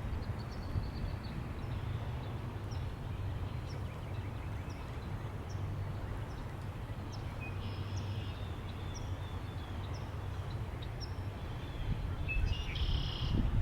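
Birds chirping over a steady low wind rumble: short high chirps repeat about once a second, with a brief song phrase about eight seconds in and another near the end.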